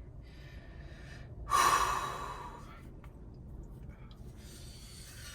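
A man breathing heavily close to the microphone, with one loud exhale about a second and a half in that fades away over about a second and a half.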